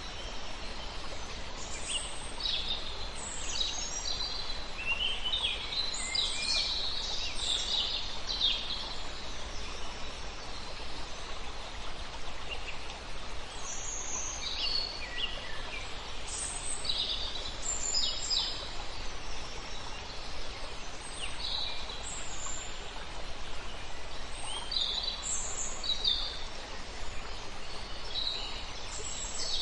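Several songbirds chirping and singing in short, high phrases, busiest in the first ten seconds, over a steady rush of river water.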